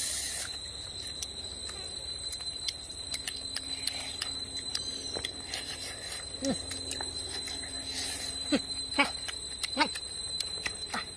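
Close mouth sounds of eating roasted pig skin: wet chewing and lip-smacking clicks, with a few short falling hums after the middle. A steady high-pitched tone runs underneath throughout.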